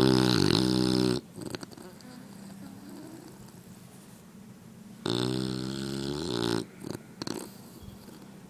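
English bulldog snoring in her sleep: two long, loud, pitched snores about five seconds apart, each lasting a second or more, with a few short, quieter sounds after each.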